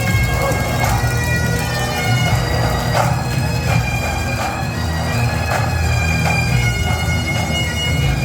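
Bagpipes playing a tune: a melody on the chanter over steady, unbroken drones.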